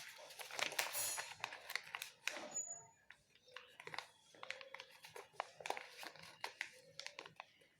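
Sheet of paper being folded and creased by hand: rustling and crinkling, busiest in the first three seconds, then scattered light crackles and taps.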